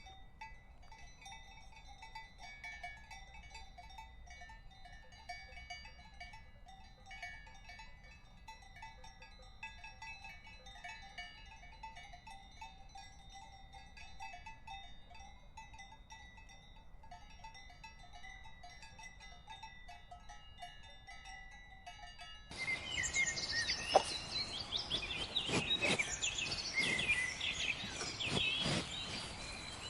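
Livestock bells clinking faintly and unevenly, as grazing animals move. About 22 seconds in, a sudden cut to a louder farmyard recording with many short chirping animal calls.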